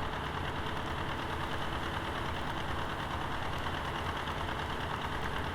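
An engine running steadily, with a fast, even pulsing in its low rumble.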